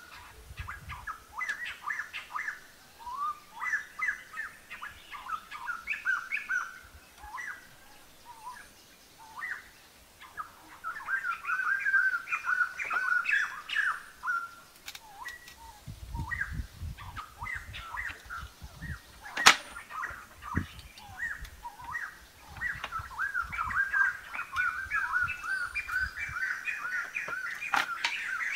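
Small birds chirping and twittering in rapid runs of short calls, with a few sharp knocks; the loudest knock comes about two-thirds of the way through.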